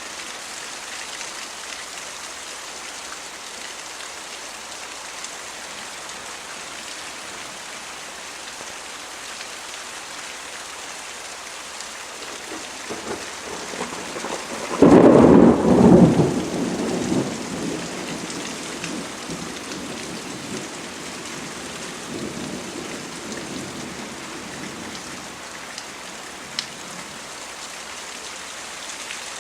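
Steady heavy rain falling, with one loud clap of thunder about halfway through that rumbles on and fades over several seconds.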